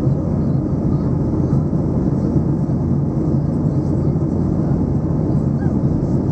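Steady cabin noise of a jet airliner in flight: an even rush of engine and airflow noise, heaviest in the low end, with a constant low hum.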